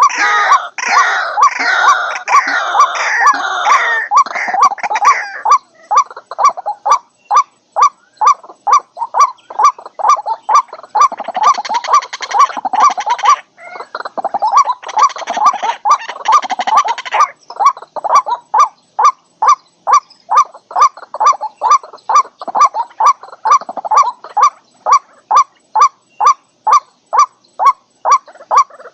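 White-breasted waterhen calling: at first a dense chorus of harsh croaking notes, then a steady run of short repeated 'kwak' notes at about two a second, broken twice in the middle by more bursts of the dense chorus.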